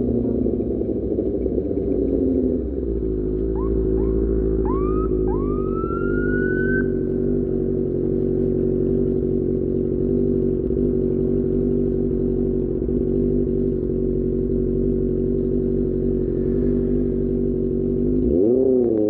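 QJMotor SRK600 inline-four engine through an Austin Racing exhaust, dropping in pitch about two seconds in and then holding a steady low note, then revving up near the end. Between about three and a half and seven seconds in, four short rising siren-like whoops sound over it, each longer than the last.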